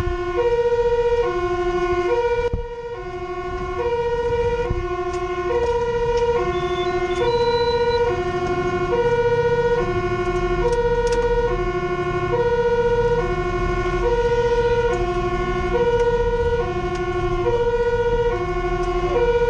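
Fire truck's two-tone siren alternating evenly between a low and a high note, about two changes every one and a half seconds, heard from inside the truck over the low rumble of engine and road. It dips briefly about two and a half seconds in.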